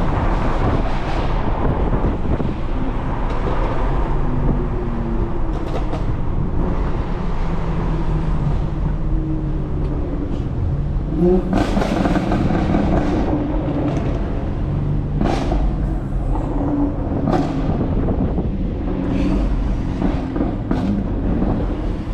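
BMW X3 M's twin-turbo S58 inline-six driving under varying throttle, its engine pitch rising and falling with a rev-up around the middle. Several short sharp cracks sound in the second half.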